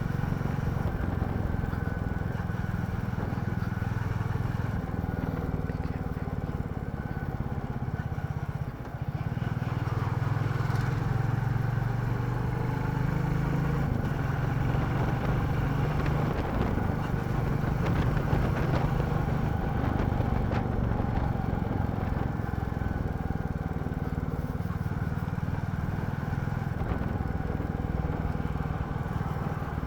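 Royal Enfield Classic 350's single-cylinder engine running steadily while the motorcycle is ridden, with a brief dip in level about nine seconds in before it pulls again.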